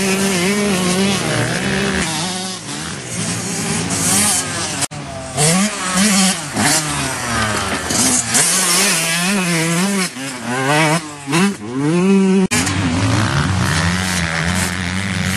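Yamaha YZ125 two-stroke motocross engine revving hard as it is ridden, its pitch rising and falling over and over with the throttle. The sound breaks off abruptly twice, about five and twelve seconds in.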